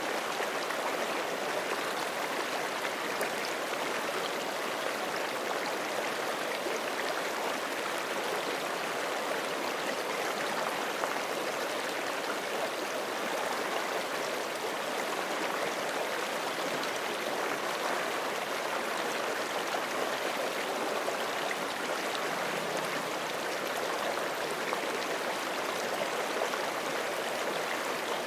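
Forest creek flowing over rocks, a steady, unbroken rushing of running water.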